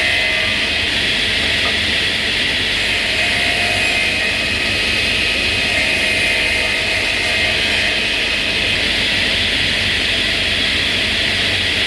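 Electric power tool motor running steadily at full speed with a high whine.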